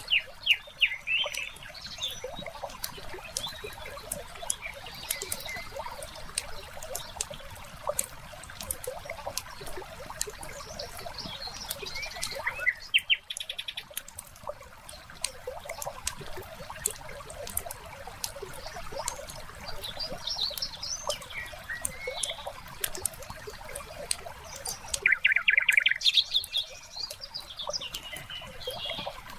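Wood fire crackling with a steady scatter of sharp pops, while birds chirp in short bursts several times over it.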